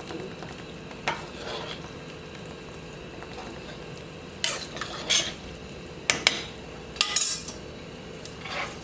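Spoon stirring and knocking against a soup pot, with scattered sharp clinks over a steady low background hum.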